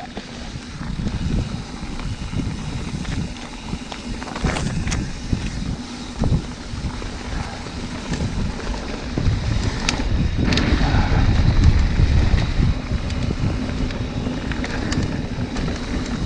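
Wind buffeting the camera microphone during a fast ride over a dirt trail, with steady rumble from the ride and a few sharp knocks and rattles.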